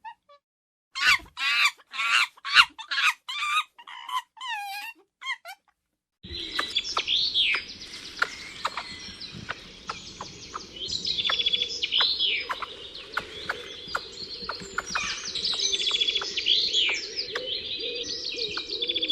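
A run of short, squeaky pitched calls from an animal during the first few seconds. Then, after a brief gap, birds chirping and singing over a steady background hiss, with quick whistled notes that rise and fall.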